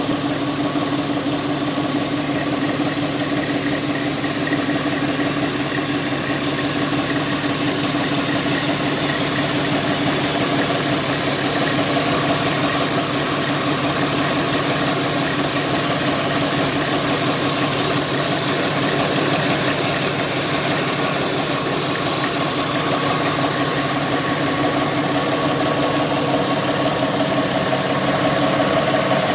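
Porsche 996's flat-six engine running with a continuous, steady squeak, growing slightly louder about a third of the way in.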